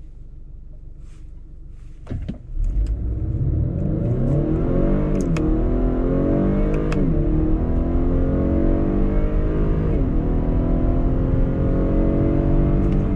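2019 Acura RDX's K20C4 2.0-litre turbo four idling, then launched at full throttle about two seconds in. The engine revs climb and drop back at each upshift of the 10-speed automatic, three shifts in all.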